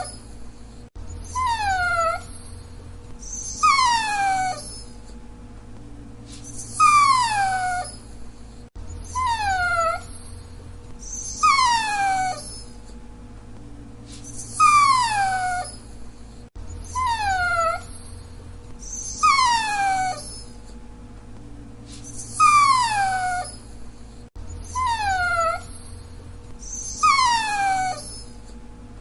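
A dachshund whining in short, high, falling whimpers, repeated about every two seconds.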